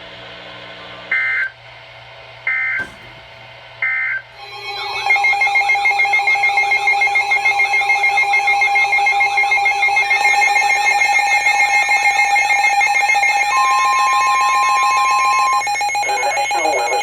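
Emergency weather alert tones: three short bursts of digital data header, then a loud, long alert signal of several steady and warbling tones sounding together, with a higher steady tone joining briefly near the end. This is the attention signal that announces a new warning.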